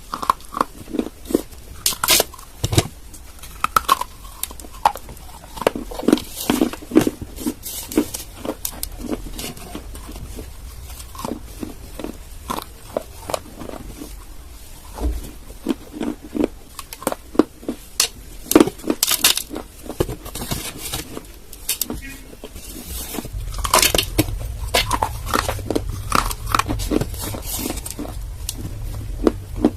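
Dry clay lumps being bitten and chewed close to the microphone: a run of sharp, irregular crunches and crackles, with a low rumble joining in about two-thirds of the way through.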